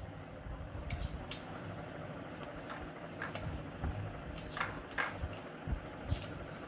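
Close-up eating sounds of a person chewing food, with scattered soft clicks and smacks.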